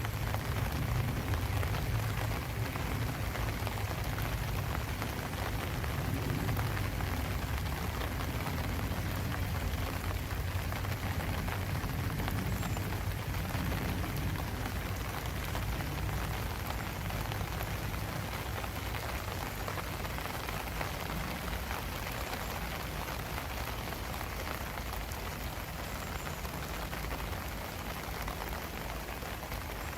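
Steady rain falling, an even hiss of many drops with a low rumble underneath, easing off slightly toward the end.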